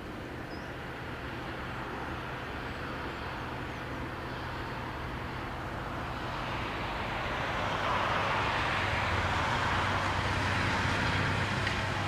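A passing vehicle's rushing noise swells from about halfway through and stays loud to the end, over a steady low hum.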